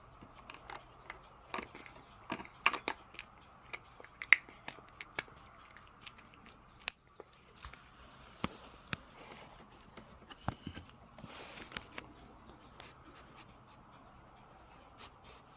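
A cat crunching dry food, with irregular sharp crunches, a quick run of them in the first few seconds and then scattered ones.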